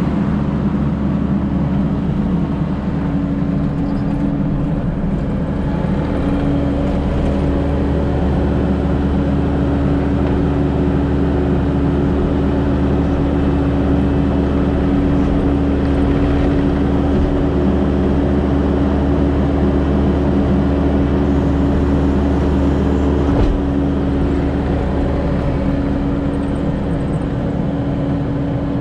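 Kubota SVL75-2 compact track loader's diesel engine running steadily with a constant pitch as the machine is driven.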